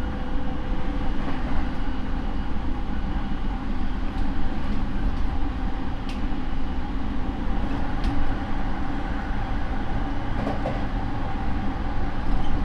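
Interior running sound of a Rinkai Line 70-000 series electric train (refurbished car with Mitsubishi IGBT inverter and MT73 traction motors) travelling between stations: a steady hum and rumble with a few short clicks from the wheels and track.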